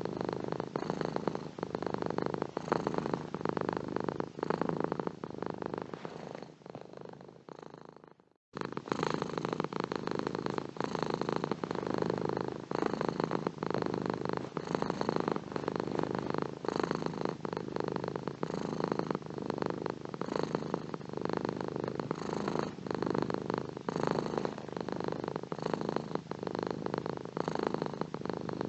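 Domestic cat purring steadily in a close, pulsing rumble. About six seconds in it fades away to a moment of silence, then starts again abruptly at full strength and carries on.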